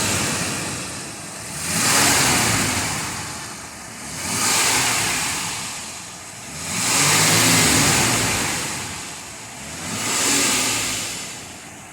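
2004 Toyota Land Cruiser Prado's 4.0-litre VVT-i V6 petrol engine being revved in neutral, five blips in a row, each rising and then falling back toward idle; the fourth rev is held longest.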